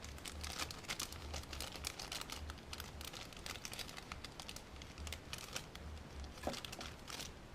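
Plastic packaging crinkling and rustling in the hands, a steady run of small irregular crackles and clicks.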